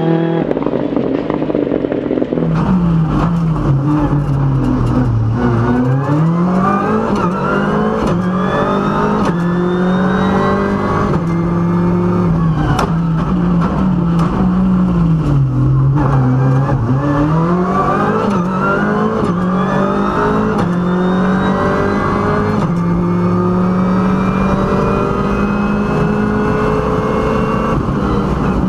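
Ford Fiesta R5's turbocharged 1.6-litre four-cylinder engine heard from inside the cabin, driving at a steady pace. Its pitch falls and climbs back twice as the car slows and speeds up again, with scattered clicks and knocks over the engine note.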